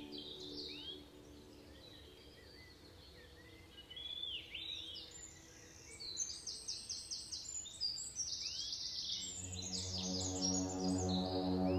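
Birds calling in a tropical forest: short upslurred chirps, then a fast run of high repeated notes in the middle. A low ambient music drone fades out at the start and swells back in near the end.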